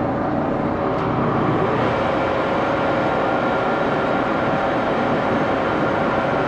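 Axelson engine lathe running steadily with its spindle set to 473 rpm: an even mechanical drone with several steady tones from the gearing.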